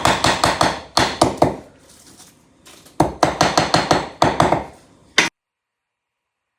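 Rapid hammer blows in bursts of quick strikes, about five a second, with short pauses between bursts. The sound cuts off suddenly a little after five seconds in.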